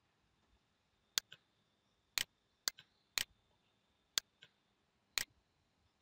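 Computer mouse button clicking: about six sharp clicks roughly a second apart, several followed closely by a fainter second click.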